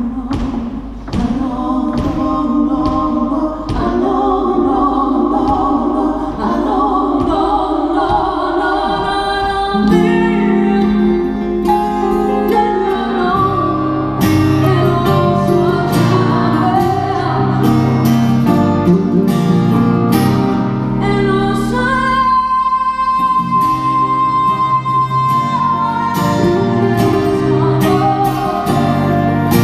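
Live song performance: singing over strummed and plucked guitar, filling out with sustained accompanying notes about a third of the way in, with a short drop to a single held note a little past two-thirds through.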